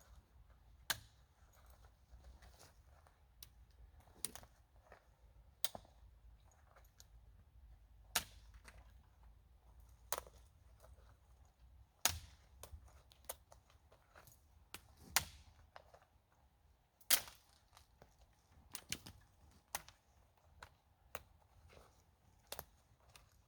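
Scattered sharp snaps and clicks, irregular and one to two seconds apart, of twigs and frozen ground litter cracking under footsteps.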